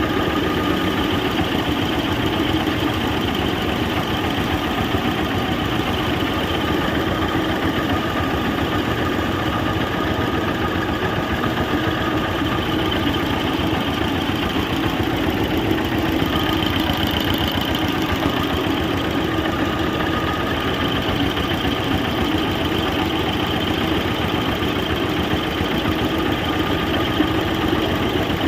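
Pump set engine running steadily while it drives a mixer grinder that is grinding onion, chilli, coriander and tomato.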